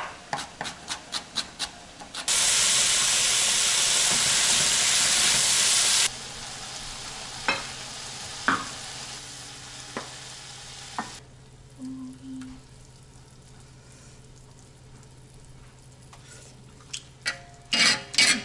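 A knife chopping carrot on a wooden cutting board in quick regular strokes, then a stir-fry of meat and vegetables sizzling loudly in a hot pan for about four seconds, starting and stopping abruptly. The sizzle goes on more quietly with a few utensil clicks against the pan, and dies down about halfway through; a few more clicks come near the end.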